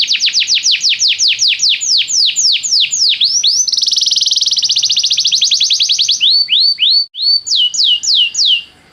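Domestic canary singing: a fast trill of repeated falling notes that gradually slows, then a buzzy rolled phrase, then a few slower swooping notes. The song stops abruptly near the end.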